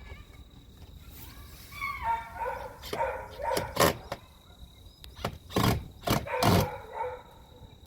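Dogs barking, a string of loud barks that begins about two seconds in and continues to the end.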